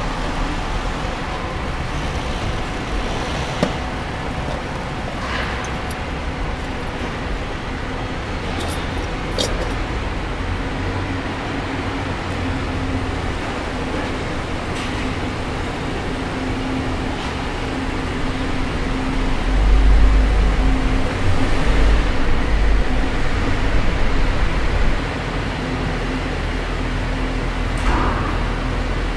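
Four-wheel-drive vehicle driving slowly, its engine running with a steady drone. A deeper, louder rumble rises for about five seconds past the middle, then settles back.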